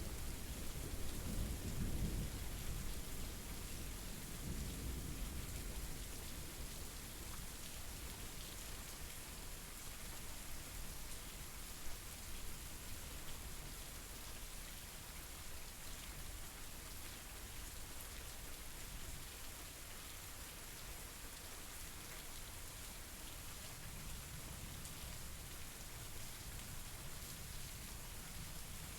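Steady rain falling, with a low roll of thunder dying away over the first several seconds.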